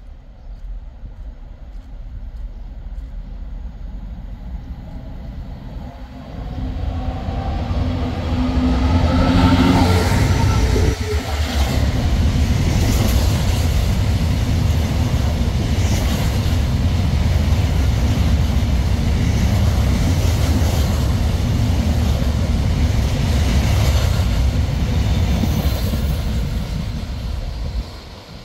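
A train approaching and passing close by. Its engine rumble builds and is loudest as the front goes past about ten seconds in, followed by a long run of wheels clattering over the rail joints as the rest of the train goes by. The sound cuts off suddenly near the end.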